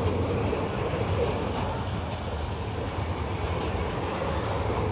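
Freight train of high-sided open wagons rolling past close by: a steady rumble of wheels and running gear on the rails.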